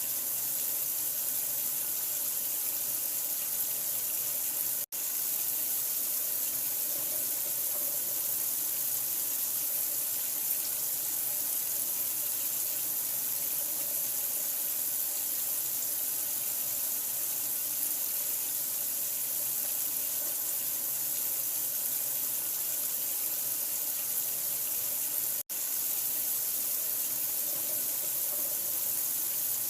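Running water, a steady rushing hiss strongest in the high range, cut by two momentary dropouts, about five seconds in and near the end.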